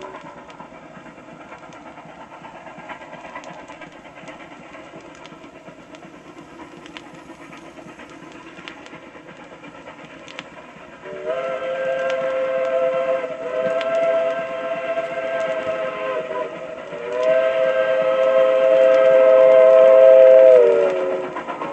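A steam train running with a steady, even noise and light clicks. About eleven seconds in, its multi-note chime whistle blows two long blasts, and the pitch sags as each blast dies away.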